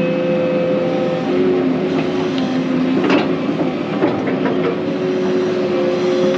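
Excavator's diesel engine running steadily under load, with a sharp scrape about three seconds in and a few lighter knocks around it as the bucket digs.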